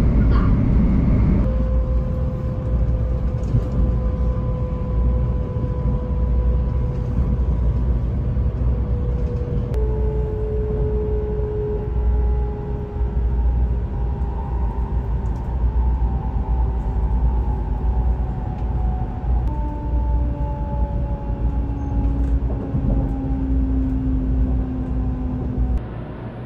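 JR West 500 series Shinkansen train running with a heavy low rumble, its motors whining in thin tones that slide slowly down in pitch as the train slows.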